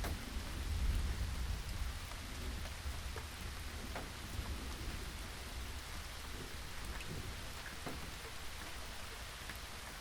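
Steady rain falling on surfaces, with single drops ticking through it. A low rumble of distant thunder peaks about a second in and then dies away.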